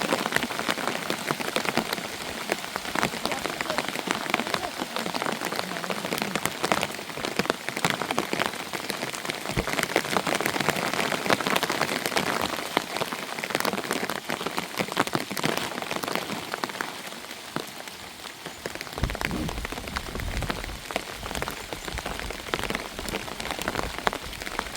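Heavy rain falling, a dense, steady patter of drops hitting surfaces. About nineteen seconds in, a low rumble joins it.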